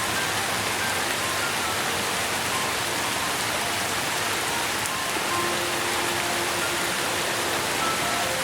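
Steady rain falling, an even hiss with no let-up. Scattered soft, held tones at several pitches sound faintly through it.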